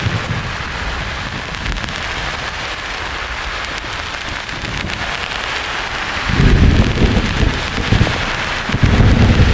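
Thunderstorm ambience: a steady rain-like hiss, with a deep rumble of thunder breaking in about two-thirds of the way through and surging again near the end.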